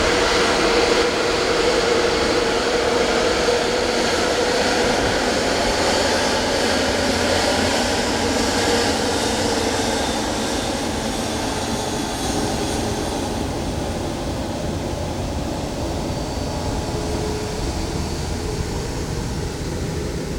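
Jet airliner engines running with a steady whine over a dense noise, loud at first and slowly fading as the aircraft moves away.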